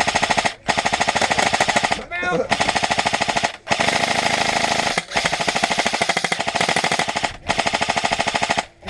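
Airsoft rifle firing full-auto in long bursts of one to two seconds with brief pauses between them, a rapid even stream of shots.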